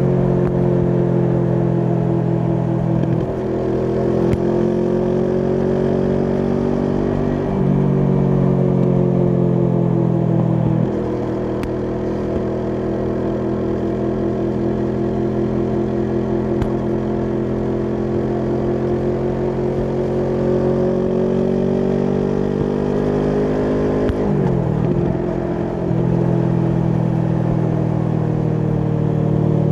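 Kawasaki Vulcan S's 649 cc parallel-twin engine with an Arrow aftermarket exhaust running under throttle, its pitch dropping briefly about three times, as at gear changes or throttle roll-offs, then pulling again.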